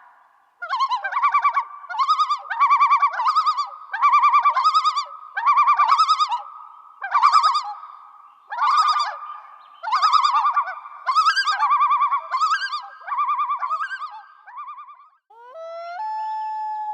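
An animal calling repeatedly in short, rapidly pulsed calls, about one a second, that stop about fifteen seconds in.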